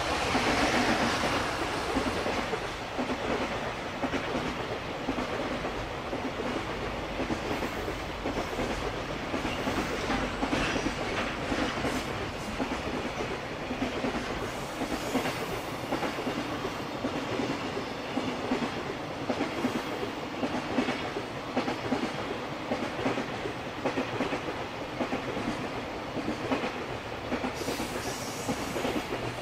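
A JR Freight EF210 electric locomotive passing close, loudest in the first couple of seconds, followed by a long string of container wagons rolling by with a continuous rumble and steady clickety-clack of wheels over the rail joints.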